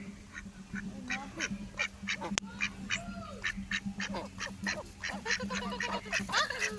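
A flock of domestic waterfowl calling excitedly: rapid, overlapping honks and quacks, several a second, growing busier toward the end.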